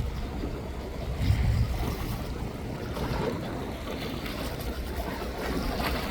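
Wind rumbling on the microphone over open waterfront noise, with a stronger gust about a second in.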